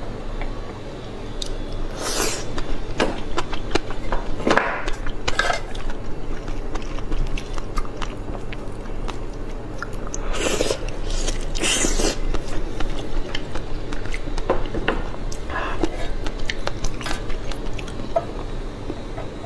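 Close-miked eating: a person biting and chewing food, with many small clicks and several louder noisy bites and chews scattered through.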